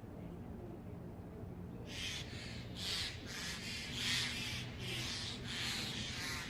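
Rhythmic scratchy rubbing or scraping strokes, about two a second, starting about two seconds in, over a faint low background hum.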